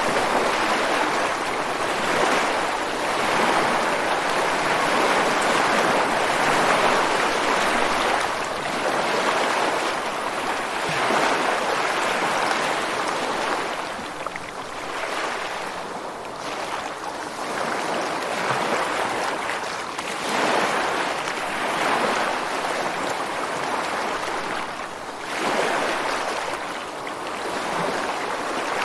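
Ocean surf breaking on a beach and against rocks: a continuous wash of water that swells and eases every few seconds as each wave comes in.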